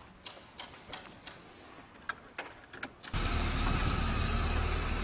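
A few faint clicks and knocks, then about three seconds in a car engine running steadily, coming in abruptly and louder.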